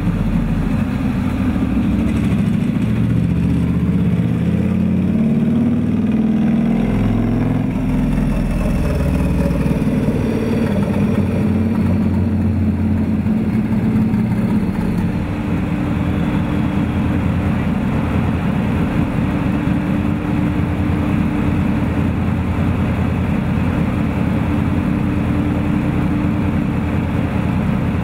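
Turbocharged Harley-Davidson V-Rod Screamin' Eagle V-twin running, its pitch rising and falling over the first ten seconds or so, then settling into a steady closed-throttle idle at around 1,100 to 1,300 rpm.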